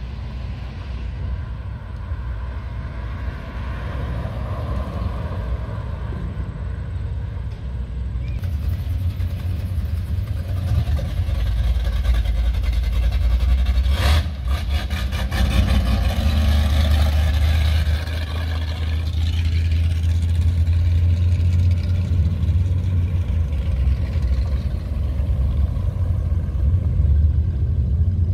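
Classic cars' engines rumbling as they drive past one after another, growing louder as a vintage Ford panel truck passes about halfway through, with a brief crackle of sharp clicks as it goes by. The rumble stays strong near the end as a classic Mustang convertible drives away.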